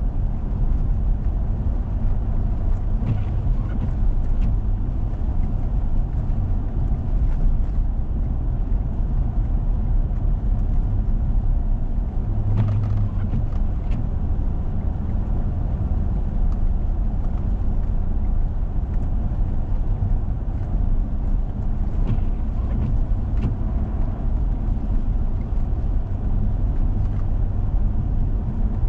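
Four-wheel-drive vehicle driving on a snow-covered road: a steady low rumble of engine and tyres, with a few faint knocks and a short stronger hum about halfway through.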